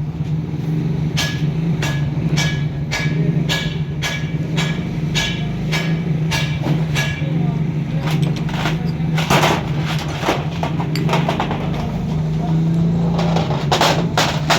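Hammer tapping on a metal engine or gearbox part, about two ringing strikes a second for around six seconds, followed by scattered knocks and clatter. A steady low hum runs underneath.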